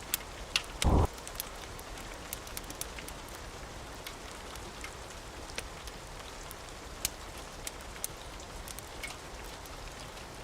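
Steady rain with scattered sharp crackles and pops, as from a fireplace burning. A brief, loud low thump comes about a second in.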